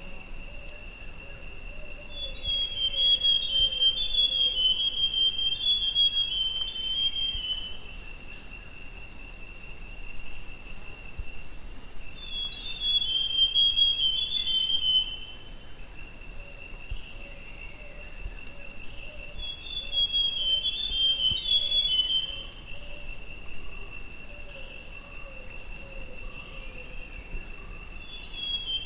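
Buff-brown scrub-robin (Cercotrichas leucosticta) singing: three phrases of quick, up-and-down warbled notes falling in pitch, each about three seconds long, coming roughly every eight to ten seconds. A steady, high insect drone continues underneath.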